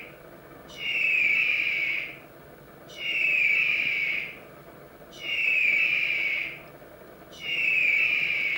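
An animal's high-pitched call, each about a second long and falling slightly in pitch, repeated five times at an even pace.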